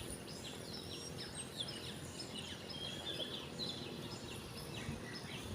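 Many small birds chirping together in a morning chorus, short high chirps overlapping throughout, over a steady background hiss.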